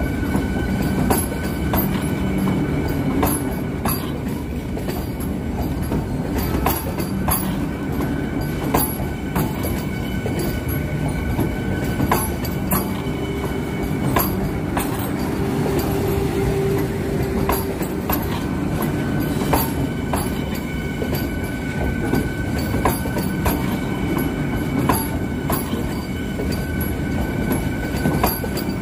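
Vande Bharat Express (Train 18) electric multiple unit passing close by: a steady rumble of wheels on rail, broken by irregular clacks as the bogies cross rail joints, with a faint steady high whine over it.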